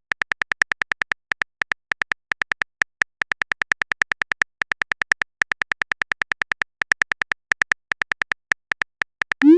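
Phone keyboard typing sound effect: a rapid run of short, identical clicks, about eight a second with brief pauses, as a chat message is typed out. A short rising blip near the end, like a message-sent sound.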